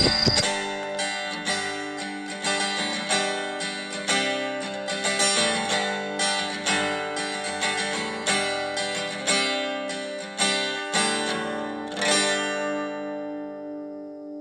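Background music of picked acoustic guitar notes, ending with a last chord about twelve seconds in that rings out and fades.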